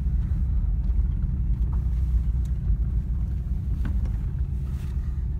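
Subaru Impreza wagon's flat-four engine running, a steady low rumble heard from inside the cabin, with a few faint clicks.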